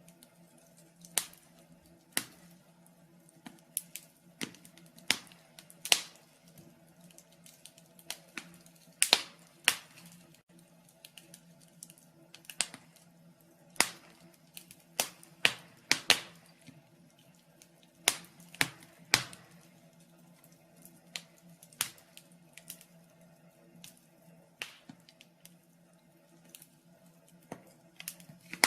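Wood fire in a fireplace crackling, with irregular sharp pops about every second or two over a faint steady hum.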